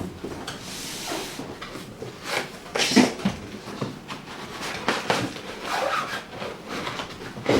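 Knocks, clatter and a brief rustling rush of objects being handled, with a few sharper knocks spread through, and no steady motor or fan sound.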